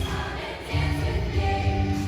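Show choir singing a rock number with held notes over a heavy, pulsing bass accompaniment.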